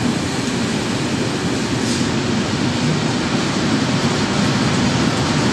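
Container freight train's wagons rolling past on the adjacent track, a steady noise of wheels running on the rails.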